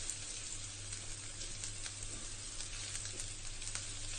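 Chopped onions and garlic paste sizzling in hot oil in a frying pan, stirred with a spatula: a steady hiss with a few faint crackles.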